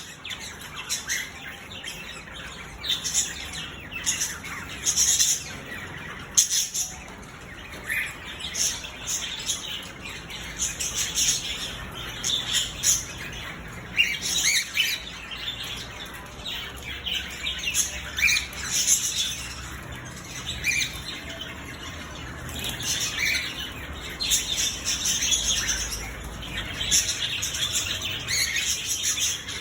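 Several birds chirping and calling, with many short calls following one another and overlapping, some harsher squawks among them.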